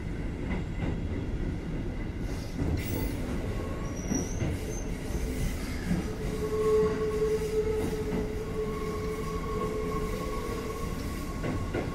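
Keikyu 1500 series field-chopper electric train running, heard from inside the car: a steady rumble of wheels on rail with a few knocks. From about halfway a steady high squeal sets in and holds for several seconds.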